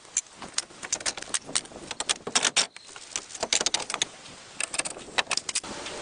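A run of sharp, irregular clicks and taps, several a second, some in quick clusters.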